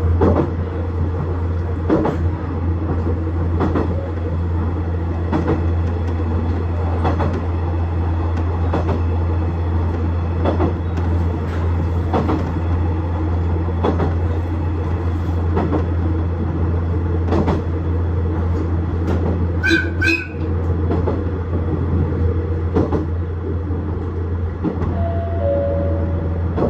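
KiHa 110 series diesel railcar running between stations: a steady low engine drone, with the wheels clacking over rail joints about once every 1.7 seconds. About twenty seconds in, a short high ringing tone sounds twice.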